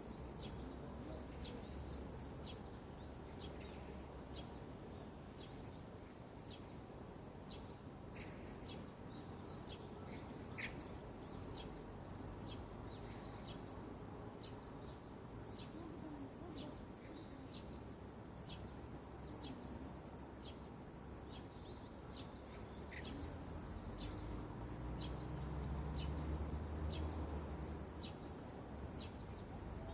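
Morning birdsong: a bird repeating one short, high chirp evenly, about one and a half times a second, over a faint background hiss. A low rumble swells for a few seconds near the end.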